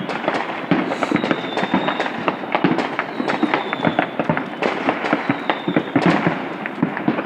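Fireworks going off in a dense, unbroken barrage: many overlapping pops, cracks and bangs, near and far, with a faint high whistle coming and going.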